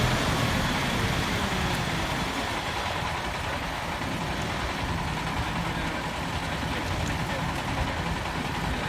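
Dump truck engine running steadily at idle.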